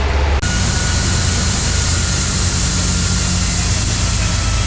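A heavy engine rumbling, then, about half a second in, an abrupt switch to a loud, steady rushing hiss over a running engine.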